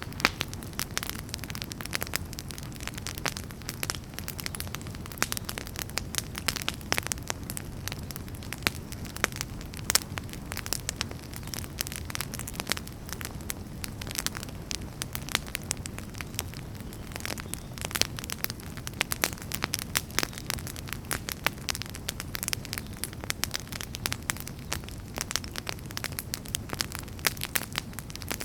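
Wood fire burning in a fireplace: a steady low rumble of flames with dense, irregular crackles and pops.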